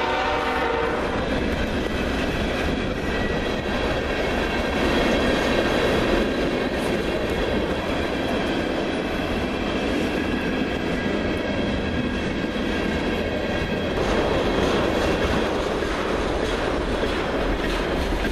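Freight train of tank cars rolling past, with the steady rumble of steel wheels running on the rails. A locomotive horn is fading out in the first second.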